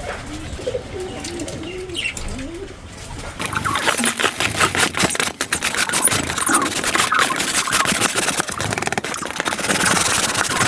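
Pigeons cooing, low wavering calls, for the first three seconds. Then, from about three seconds in, a louder run of rapid scratchy knocks and scraping, which fits scraping the pigeon cage clean.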